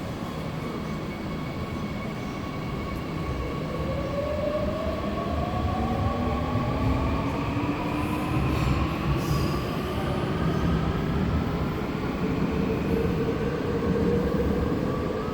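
Seoul Subway Line 9 electric train pulling away from the station, its traction motors giving a whine that climbs steadily in pitch as it accelerates from about four seconds in, over rumbling wheel and rail noise that grows slightly louder.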